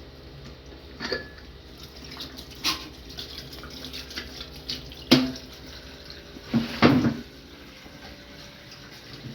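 Water running, with several sharp knocks and clatters, the loudest pair a little before the end.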